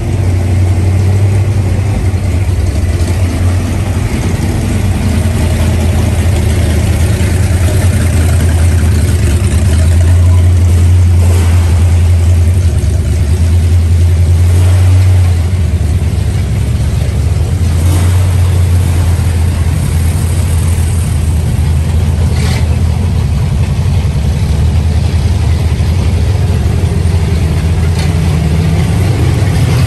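A traditional hot rod's engine running loudly at a steady idle, a little louder for a few seconds around the middle, with a few brief clicks.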